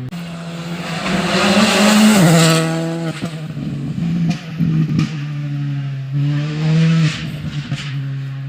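Rally car engine at high revs on a stage. The engine climbs in pitch, drops sharply about two seconds in, then pulls again with sharp cracks from the exhaust.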